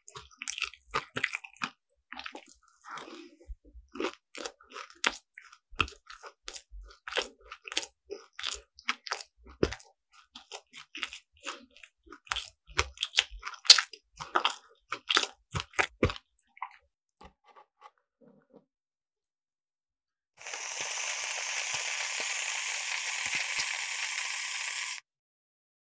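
Crisp croffle being bitten and chewed close to the microphone, in many sharp, irregular crunches, for most of the first two-thirds. Near the end comes a steady hiss of about four and a half seconds that starts and stops abruptly.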